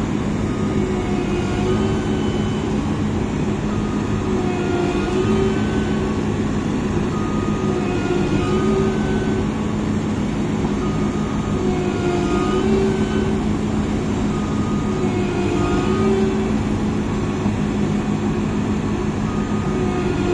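Engine of a tracked Massey Ferguson CS6050 rice combine harvester running steadily as the machine works through deep mud, with a short squeak recurring about every three to four seconds.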